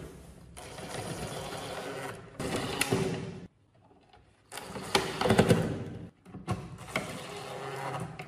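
Small motorized hand tool running in four bursts of one to two seconds each, with short pauses between them.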